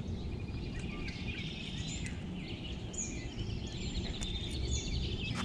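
Birds calling with several short, high, falling chirps over a steady low rumble.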